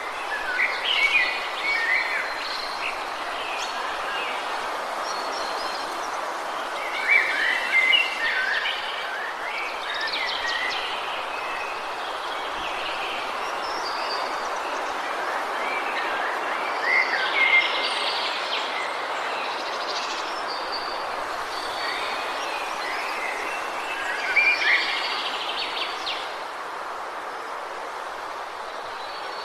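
Woodland birds calling and singing in short phrases every few seconds over a steady rushing background noise.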